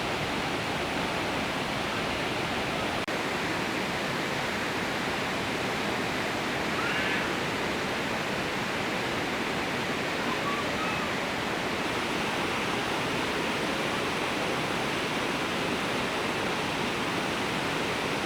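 Iguazu Falls in flood, a huge volume of water pouring over the falls as a steady, unbroken rush of water noise.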